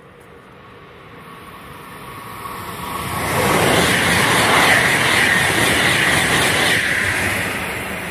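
High-speed electric train approaching and passing through at speed: a rising rush of wheel and air noise that holds loud for a few seconds in the middle, then starts to fade as the train goes by.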